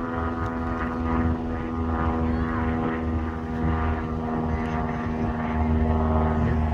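Steady low hum and rumble of an idling vehicle engine, with faint gull calls now and then.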